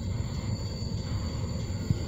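Union Pacific rail train's flatcars, loaded with ribbon rail, rolling past: a steady low rumble of steel wheels on the track, with a single sharp clack near the end.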